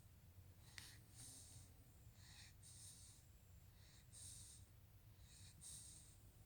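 Shar-Pei dog snoring faintly, with soft, airy, hissing breaths through the nose about every second and a half.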